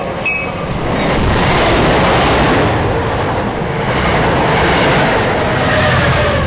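MBTA commuter train passing through a station at speed, bi-level cab car leading: a loud rush of wheels on rail and air that swells about a second in and stays high through the pass. A repeated high ding is heard at the very start.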